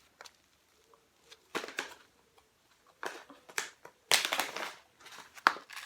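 A tea bag pouch being handled and opened: bursts of crinkling and rustling packaging, with a sharp click near the end.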